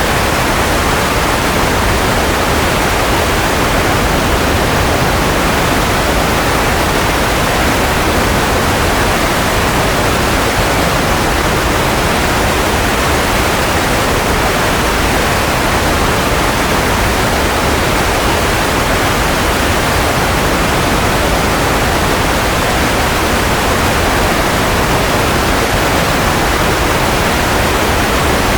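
Steady, unbroken white-noise hiss, fuller in the middle range and softer in the highs, with no hum or whine in it.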